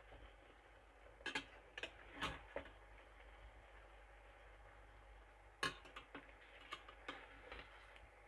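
A cooking utensil knocking and scraping against a pan while chicken is stirred: a few sharp taps about a second in, then another cluster of taps in the second half, over a faint steady background.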